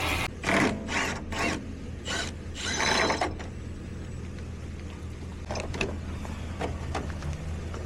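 Metal parts and hand tools clanking and ratcheting while the battery box of an 18-wheeler is being opened: a quick run of irregular clacks in the first three seconds, then a few lighter clicks, over a steady low hum.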